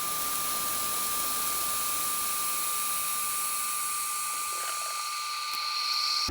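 Electric kettle heating water toward the boil, fast-forwarded: a steady hiss with a thin high tone throughout, and a higher hiss building near the end before it cuts off abruptly.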